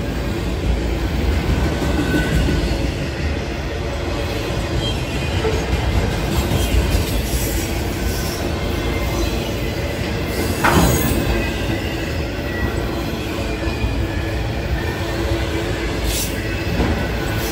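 Loaded autorack freight cars rolling past close by: a steady rumble of steel wheels on rail with thin squealing wheel tones, and a sharp metallic clank about eleven seconds in.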